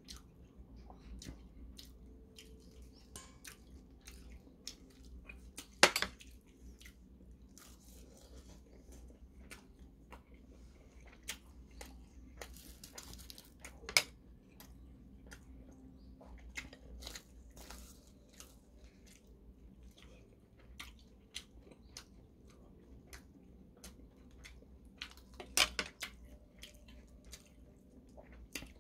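Close-up eating sounds: chewing and crunching of rice and kimchi stew wrapped in seasoned laver, with scattered sharp clicks of a spoon on the dishes. The loudest clicks come about six, fourteen and twenty-six seconds in.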